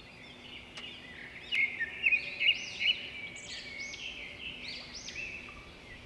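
Birds chirping outdoors: a run of quick, high, arching notes, several a second, loudest about two seconds in.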